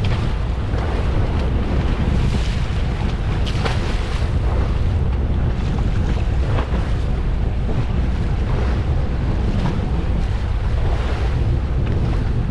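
Wind buffeting the microphone over the steady rush of the sea and boat noise at sea, with a few brief sharper sounds along the way.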